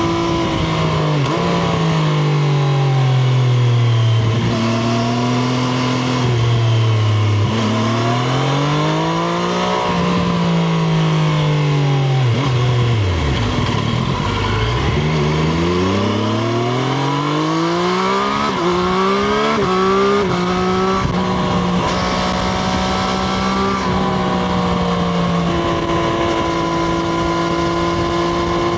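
Triumph Street Triple RS's inline three-cylinder engine heard onboard while riding: revs fall and rise several times, dip low about halfway through, then climb again through a few quick upshifts and hold steady for the last several seconds.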